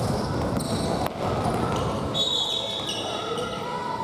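Futsal being played on a gym floor: a ball being kicked and bouncing, with short high squeaks from players' shoes on the court about halfway through, and players' voices calling.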